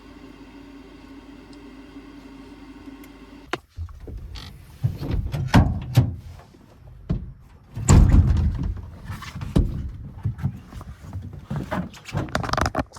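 Steady hum of the truck running with its heater on inside the cab, cutting off about three and a half seconds in. A series of heavy thumps and knocks follows.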